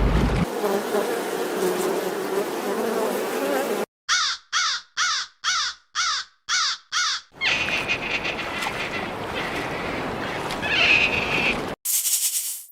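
A run of animal-sound clips: a noisy passage with a wavering low call, then seven short, sharp calls repeated about twice a second, then a hissing, buzzing passage with a steady high whine, cut off near the end.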